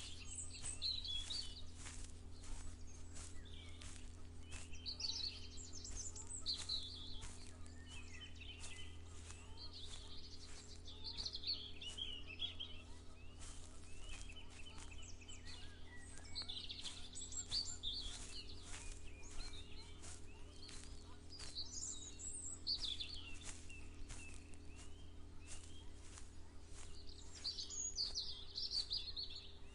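Birds singing in short phrases every two to three seconds, over regular footsteps of someone walking. A steady low hum runs underneath.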